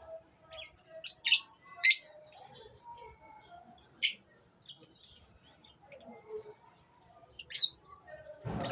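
Lovebirds in a colony giving short, sharp, shrill chirps, a few at a time, with softer chatter between them.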